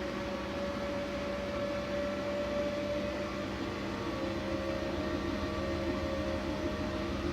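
Siemens Siwamat iQ 716 washing machine running with a steady motor hum and a few steady tones.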